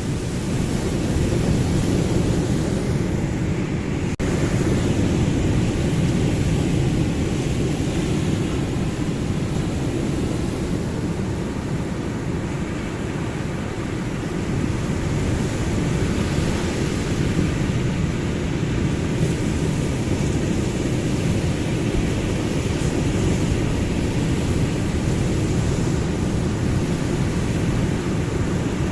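Ocean surf: a continuous low, rumbling wash of waves with little rise and fall, easing slightly a little before the middle and building back up.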